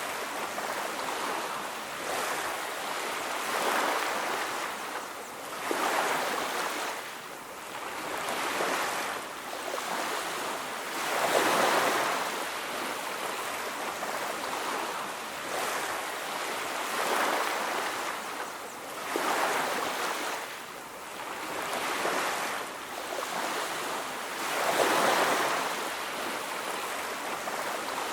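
Ocean waves washing onto a beach: a steady surf noise that swells and falls back every few seconds, with larger breakers surging about 11 and 25 seconds in.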